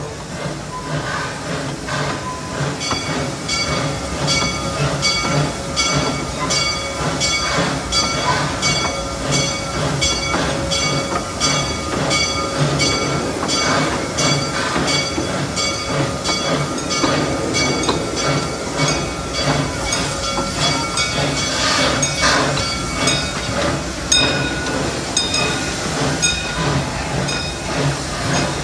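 Amusement-park railroad steam locomotive working up a grade, its exhaust chuffing in a steady, even rhythm over a hiss. About 22 seconds in there is a louder burst of hiss.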